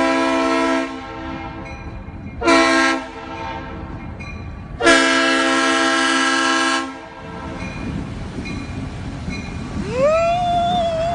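Multi-tone air horn sounding three times over a steady low rumble: a blast that cuts off just under a second in, a short blast, then a long blast of about two seconds. Near the end a single tone rises and holds.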